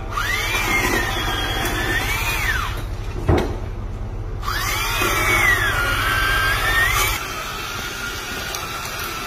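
Chainsaw cutting a fallen tree, its engine revving up and falling back several times, then running at a steadier pitch near the end.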